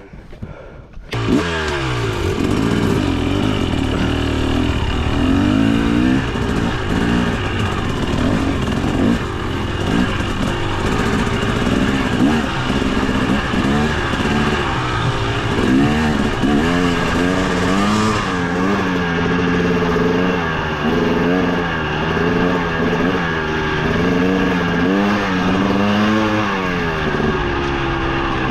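Two-stroke single-cylinder engine of a KTM 300 XC TBI dirt bike, coming in loud about a second in and revving up and down over and over as the bike is ridden along the trail.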